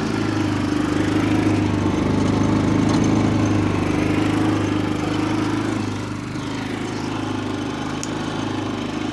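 Small gasoline engine, most likely a portable generator, running steadily with an even drone.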